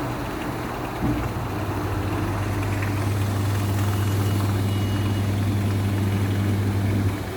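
Fully automatic washing machine running mid-cycle: a steady low motor hum begins with a knock about a second in and stops shortly before the end.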